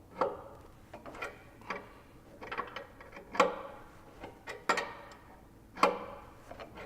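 Sharp metallic clinks of a wrench working the blade-tracking adjustment bolt on a band sawmill, about seven at irregular intervals of roughly a second, each ringing briefly.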